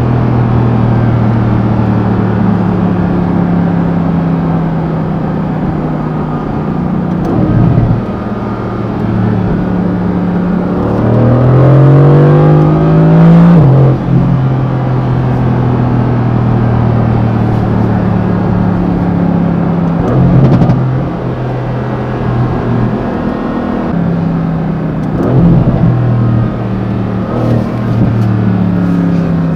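Mercedes-AMG GT C's 4.0-litre twin-turbo V8 running under way, its note mostly steady and broken by a few brief dips. About ten seconds in it rises in pitch as the car accelerates, then falls sharply at an upshift.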